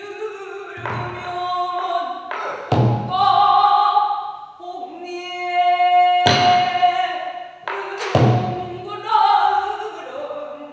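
Pansori singing: a solo voice holding and bending long sung notes, accompanied by a buk barrel drum struck about four times.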